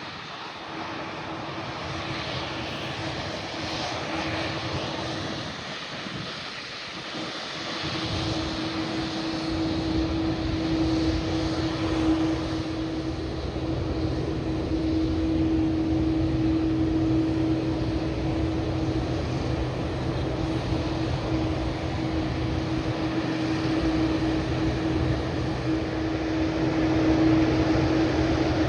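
Boeing 787-8 Dreamliner's jet engines running at taxi power: a steady whine over a low hum, growing gradually louder.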